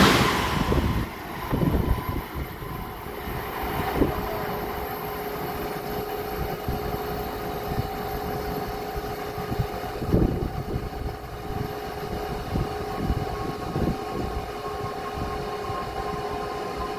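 The tail of a passing Amtrak train rushes by in the first second, then its sound drops away. A steady hum with a few held tones remains, broken by several low thumps.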